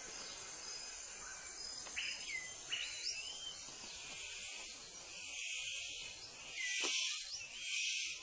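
Forest insects droning in a steady high hiss that swells louder in the last few seconds. A few short whistled bird calls sweep up and down over it, around two to three seconds in and again near the end.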